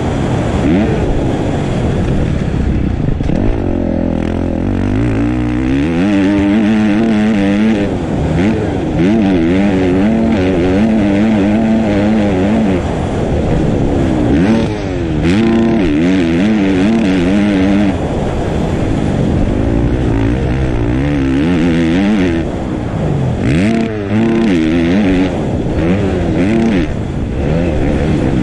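Motocross dirt bike engines revving on the track, the pitch climbing and dropping again and again as the riders open and close the throttle and shift.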